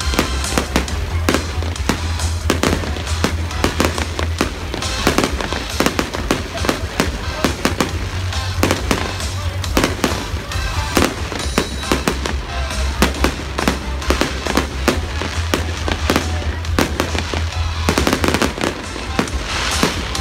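Fireworks display going off continuously: rapid, overlapping bangs and crackles of bursting shells, with music playing underneath.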